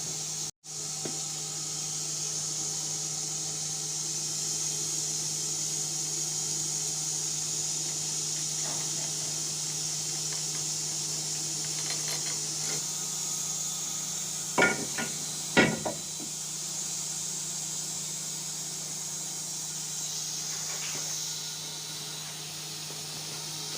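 Steady machine-shop background hum with a high hiss, broken by two sharp knocks about a second apart around the middle, with a few fainter clicks.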